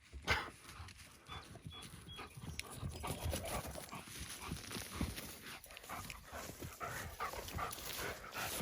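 A giant schnauzer panting hard, with irregular footsteps crunching and rustling through brush.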